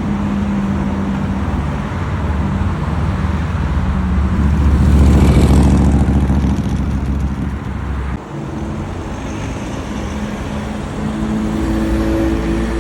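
Ferrari F12berlinetta's 6.3-litre V12 with a Novitec exhaust running in traffic. It swells to its loudest about five seconds in, dips briefly about eight seconds in, then settles to a steady engine tone.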